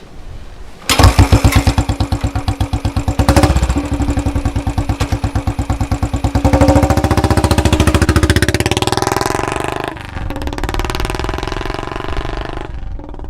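Royal Enfield Bullet 500's single-cylinder engine exhausting through a long bottle silencer. The exhaust beats come in suddenly and loud about a second in, then run as a steady thump. The engine revs up around the middle, then drops away near the end.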